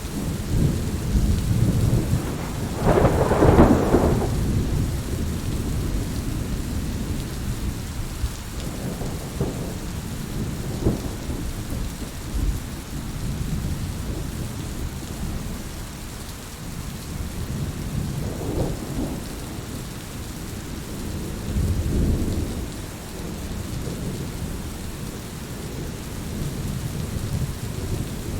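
Heavy rain falling steadily with rolling thunder underneath. The loudest thunder swell comes about three seconds in, and a lesser one follows about two-thirds of the way through.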